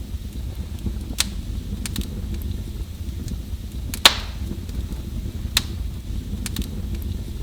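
Wood fire burning in a fireplace: a steady low rumble with scattered sharp crackles and pops, the loudest snap about four seconds in.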